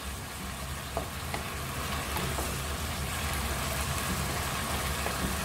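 Chicken mince sizzling in a nonstick wok as a wooden spatula stirs it, with a couple of light taps about a second in. The liquid the meat released is being cooked off.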